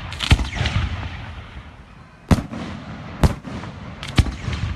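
Fireworks going off: four sharp bangs, the first a second or so apart from the others, which fall about a second apart, with crackling and rumbling between them.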